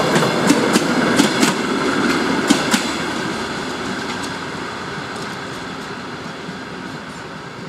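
Train passing, its wheels clacking sharply over rail joints for the first few seconds, then the rumble fading steadily as it moves away.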